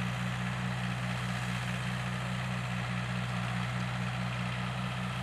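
Tractor engine running steadily under load while pulling a plow, a low hum with an even, regular pulse.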